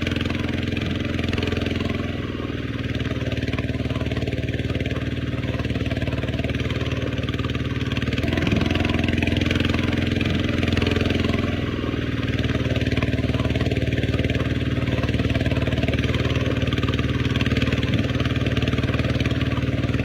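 Mini Kubota tractor's diesel engine running steadily with an even, rapid exhaust beat, a little louder for a few seconds in the middle.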